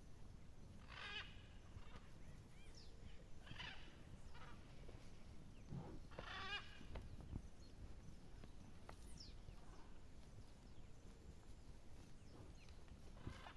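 Farm animals calling: four separate wavering calls, each under a second long, with a long gap before the last one.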